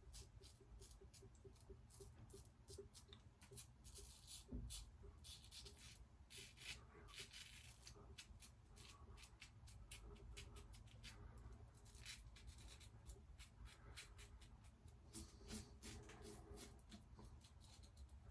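Merkur safety razor scraping through lathered stubble in many short, quick strokes, faint and irregular.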